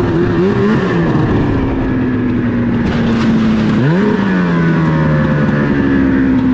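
Snowmobile engine running hard at high revs. Its pitch wavers early, rises sharply in a quick rev about four seconds in, then holds a steady, slowly falling note.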